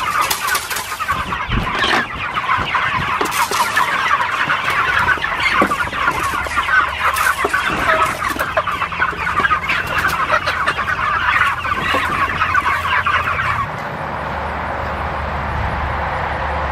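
A flock of Cornish Cross meat chickens clucking and cheeping all together, with a few scattered knocks. About 14 seconds in, the flock sound drops away to a steady low hum and noise.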